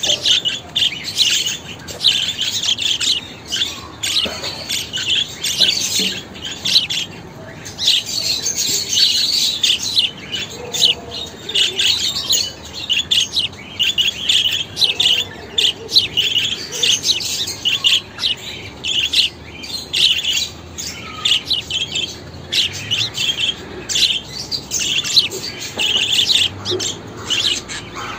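Budgerigars chattering: rapid chirps, warbles and squawks, continuous with only brief pauses.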